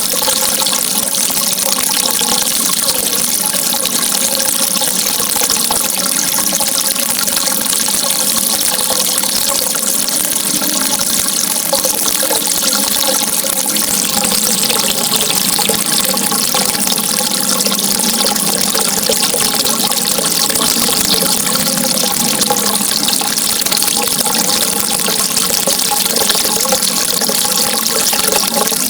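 Flowing water, a steady, even hiss with no pauses or surges.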